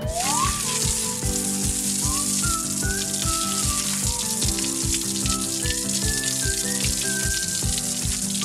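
Water running from a tap to rinse vegetables, a steady hiss that starts suddenly, over background music with a steady beat.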